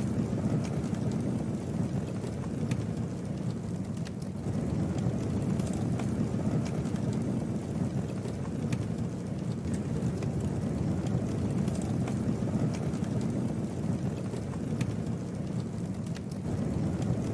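Campfire burning with a steady low rush of flame and scattered sharp crackles and pops from the burning wood.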